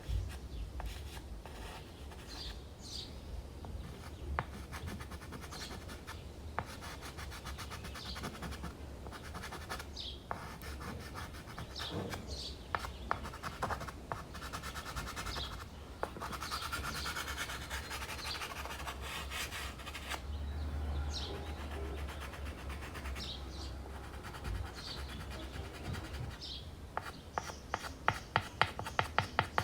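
Dry pastel stick scratching and rubbing across primed canvas board, with short bird chirps every few seconds. Near the end comes a fast run of sharp taps, about four a second.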